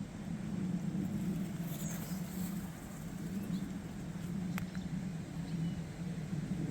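Outdoor garden ambience: a steady low hum with a few faint, brief bird chirps, and a single sharp click about four and a half seconds in.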